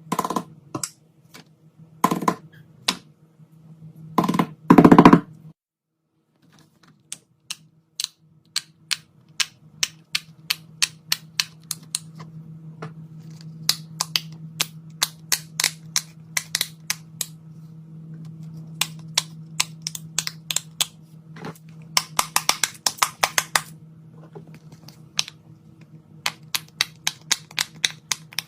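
Many sharp clicks and taps from hands working small fidget toys or craft materials, over a low steady hum. There is a brief loud burst about four to five seconds in and a dense clattering flurry around twenty-two seconds in.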